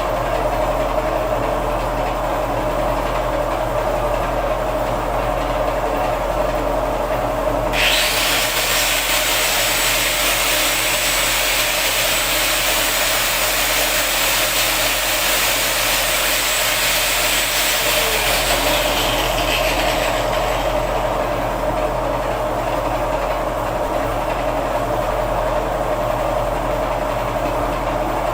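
Steady hum of a small running machine. About a quarter of the way in, a loud hissing, rasping noise, like a tool cutting or rubbing, starts suddenly, runs on and fades out about two-thirds of the way through.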